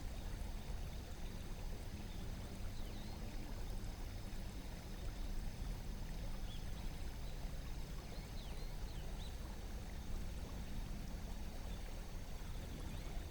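Shallow river flowing over stones: a steady rush of water. Over it run a faint, steady high-pitched insect drone and a few short, faint bird chirps.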